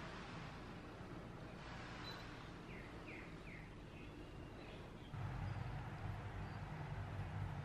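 Faint room ambience with three quick, faint bird chirps, each falling in pitch, about three seconds in. From about five seconds a low steady hum sets in.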